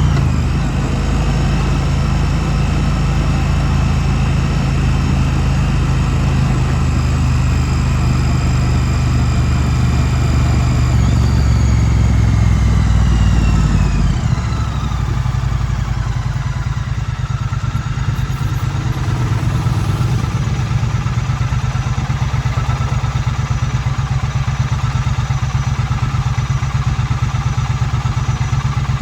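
2016 Triumph Street Twin's 900 cc parallel-twin engine running at steady road revs. Its revs fall away from about 11 to 14 seconds in as the bike slows, and it then settles into a low, even idle.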